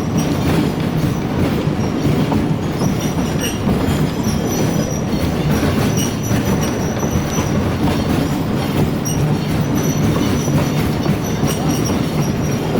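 Narrow-gauge train running along the track, a steady rumble and wheel clatter on the rails, with a thin high wheel squeal that comes and goes several times.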